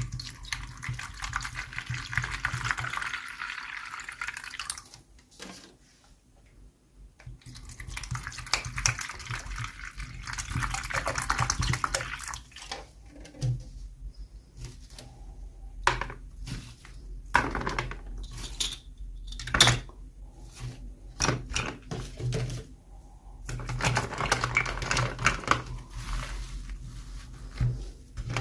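Hands unboxing small plastic toys: stretches of crinkling, rustling packaging with a run of sharp clicks and taps in between.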